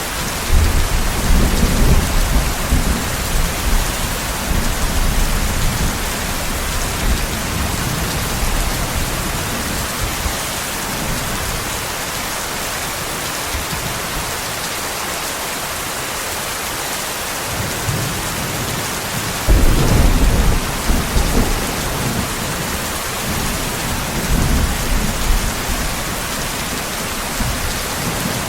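Steady heavy rain hiss with two rolls of thunder: one starting about a second in and rumbling away over several seconds, and a sharper, louder clap about two-thirds of the way through that rolls on and fades.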